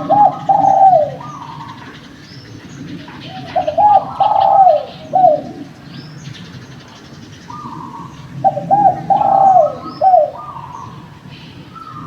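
Spotted dove (derkuku) cooing: three phrases of several throaty notes, roughly every four seconds, with a fainter answering coo between them. Small birds chirp thinly in the background.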